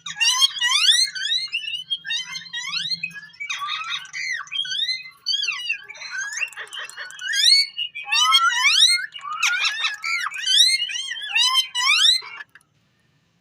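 Indian ringneck parakeet chattering and whistling: a rapid run of high-pitched rising and falling chirps and warbles, stopping suddenly near the end.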